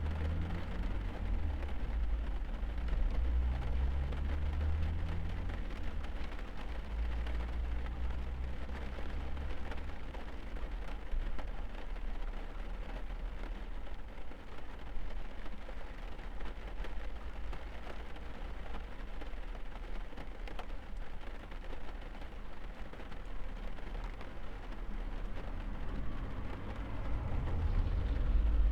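Steady rain on a car, heard from inside the cabin as an even hiss, with a deep low rumble that is strong for the first ten seconds or so, fades, and swells again near the end.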